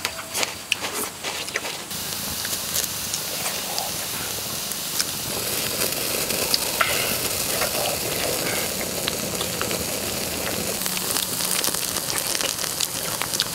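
Shell-on prawns sizzling on a hot flat stone over a wood fire: a steady frying hiss with scattered small pops and crackles, settling in evenly about two seconds in.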